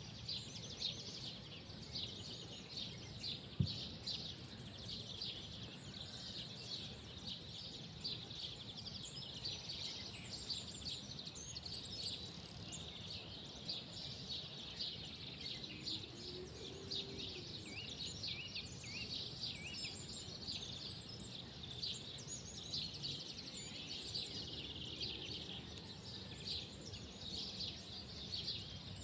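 Many small birds chirping continuously over a steady low background rumble, with one sharp click about three and a half seconds in.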